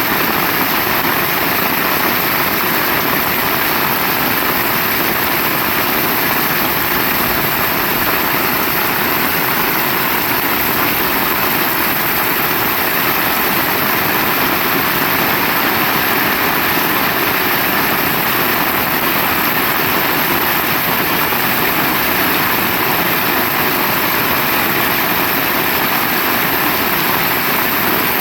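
Heavy rain falling, a loud and steady hiss of downpour.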